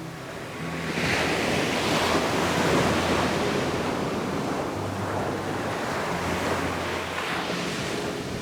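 Ocean waves breaking on a beach: a wave crashes about a second in and washes up the shore, with a smaller surge near the end, under a steady rush of surf.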